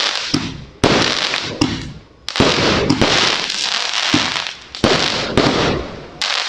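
Lucky Party fireworks cake firing shot after shot, a sharp bang every second or two, each followed by a dense crackle from the bursting stars.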